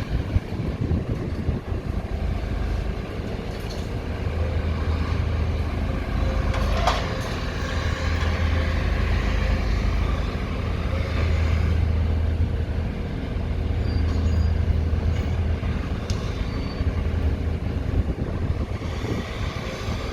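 Heavy diesel demolition machinery running steadily with a deep rumble, and a single sharp clank about seven seconds in.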